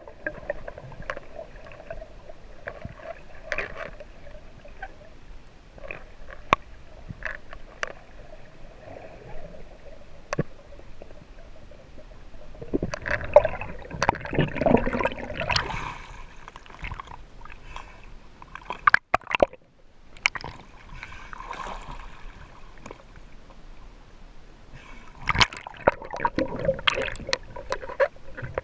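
Water gurgling and sloshing around a free diver, with scattered sharp clicks. It swells into two louder stretches of sloshing, about 13 seconds in and again near the end.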